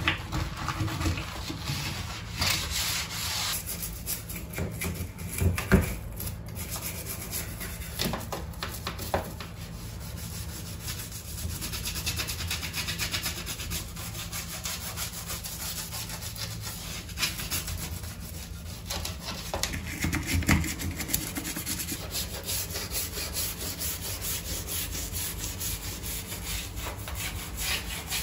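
Repeated scrubbing and rubbing strokes by hand on a hard surface, with a few sharp knocks, the loudest about six seconds in.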